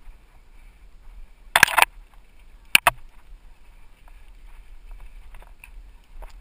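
Mountain bike ridden down a dirt trail, heard from a helmet-mounted GoPro: a steady rumble of tyres and wind, broken by two loud jolts, a short clattering burst about a second and a half in and a sharp double knock about a second later.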